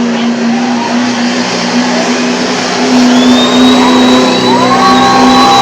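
Pulling truck's engine running flat out at steady high revs while dragging the sled, with heavy rough noise; it gets louder about halfway, when a high whistle joins.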